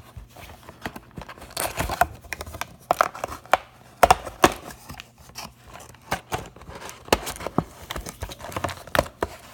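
Plastic and foil wrapping crinkling and tearing, with irregular crackles and clicks, as a sealed box of trading-card packs is opened and the packs are handled.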